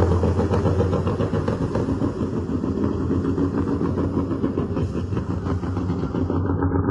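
A vehicle engine running steadily: a low drone with a fast, even pulsing.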